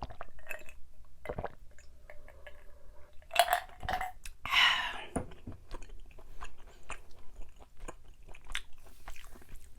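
Close-miked chewing of soft, sticky Korean rice cake (tteok), with many small wet mouth clicks; a brief louder noisy sound about four and a half seconds in.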